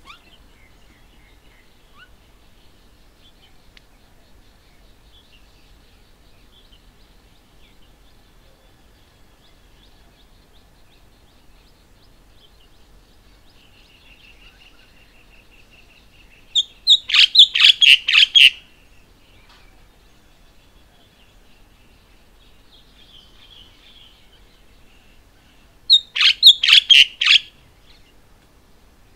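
A nearby bird calling in two loud runs of about seven quick harsh notes each, at roughly four notes a second. The first run comes about seventeen seconds in and the second near the end. Faint chirping from other birds goes on behind.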